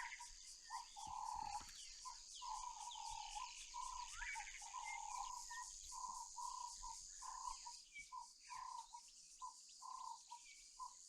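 Faint bush ambience: insects buzzing steadily at a high pitch, while some animal repeats short mid-pitched calls, irregular in length and spacing, with a few faint bird chirps above.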